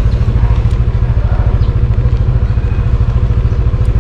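Motorcycle engine idling with a steady, even pulsing beat.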